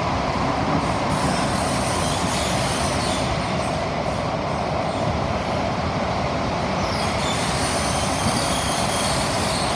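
Steady running noise heard inside the carriage of an SMRT CT251 metro train travelling between stations: wheels on rail and traction equipment. A faint high whine comes in about seven seconds in.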